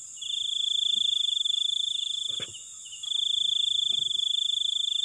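Crickets calling at night: a loud, high, pulsing trill in long runs of two to three seconds with short pauses between, over a steady higher insect hiss.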